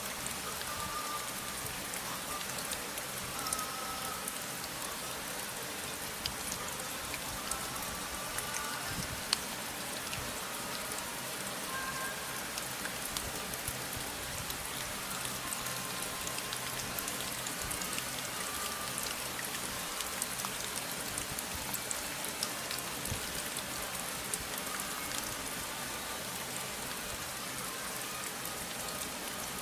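Steady rain with many small drops ticking on a surface, a continuous even hiss.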